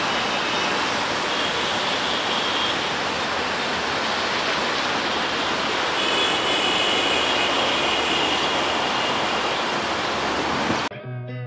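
Bangladesh Railway passenger train running away along the track: a steady, even rushing rumble, with faint thin high tones coming and going twice. Near the end it cuts off suddenly and electric guitar music begins.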